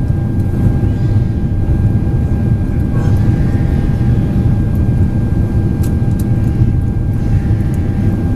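Cabin noise inside a Boeing 767-400ER in flight: a steady low rumble of the engines and rushing air, with a steady whine held at one pitch.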